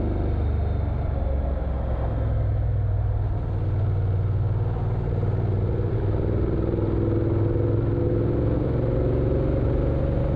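Motorcycle engine running steadily while riding, its pitch creeping up over the last few seconds.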